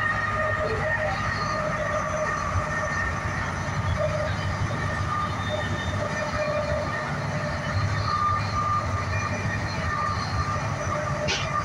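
Running noise of an NJ Transit train heard inside a multilevel coach's vestibule: a low rumble with several steady whining tones above it. A short sharp click about 11 seconds in.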